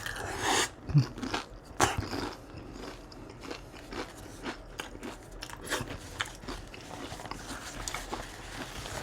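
Close-miked chewing of crunchy food, with a few loud crunching bites in the first two seconds, then softer, steady chewing.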